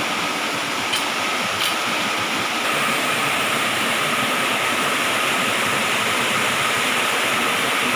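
Waterfall pouring steadily: a constant rushing of falling water, with two faint clicks about a second in.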